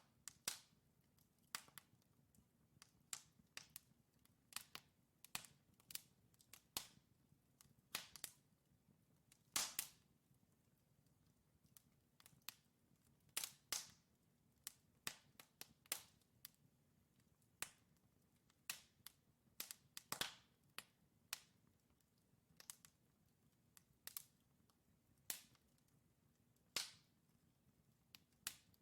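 Wood fire of burning logs crackling, with sharp, irregular pops a few times a second over a faint low background.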